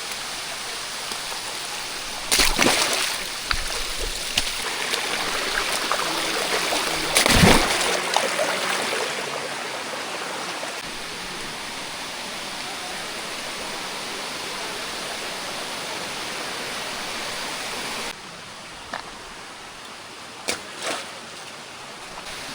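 Steady rushing of a jungle stream or waterfall, with a few loud knocks a couple of seconds in and around seven seconds, and the water turning quieter about eighteen seconds in.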